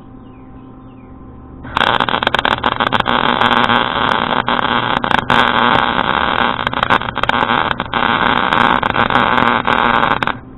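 Wire-feed welder arc crackling and sputtering through one continuous bead of about eight and a half seconds. It starts about two seconds in and cuts off abruptly near the end. The welder thinks the wire feed was set too fast.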